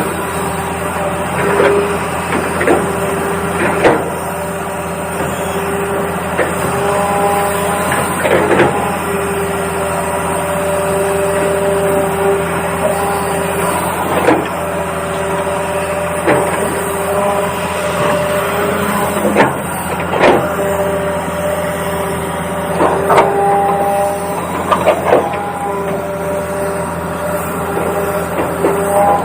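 Toy RC excavator at work: a steady low hum under a motor whine that starts and stops every few seconds as the arm moves, with scattered clicks and knocks of digging.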